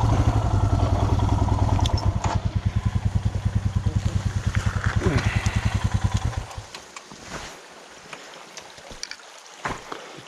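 Royal Enfield Himalayan single-cylinder motorcycle engine idling with an even, rapid thump. It shuts off suddenly a little over six seconds in, leaving faint outdoor noise and a few light clicks.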